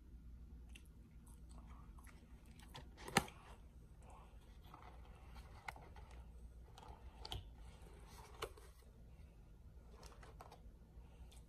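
Close-up chewing of French fries with mouth noises, mixed with small clicks and taps as cardboard fast-food boxes are handled; one sharper tap about three seconds in.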